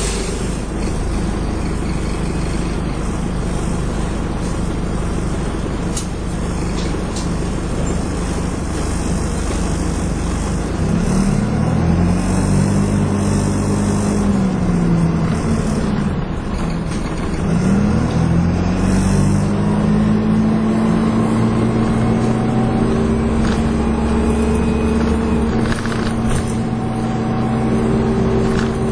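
Dennis Dart SLF bus engine running steadily, then revving up and dropping back through gear changes from about a third of the way in, before climbing again and holding a steady, higher pitch through the second half.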